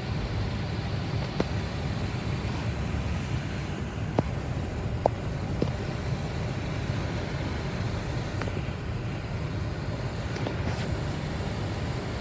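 Car running at a standstill: a steady low rumble, with a few short clicks scattered through it.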